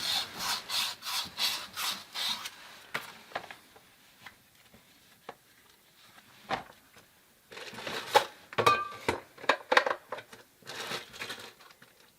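Copper pipe being scrubbed clean by hand with an abrasive before soldering: quick back-and-forth rubbing strokes, about three a second. The strokes stop for a few seconds, then resume with a few small clicks of metal parts being handled.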